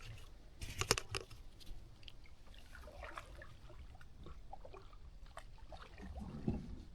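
Kayak paddle strokes in the water: scattered small splashes and drips, with a louder sharp splash about a second in and a low knock near the end.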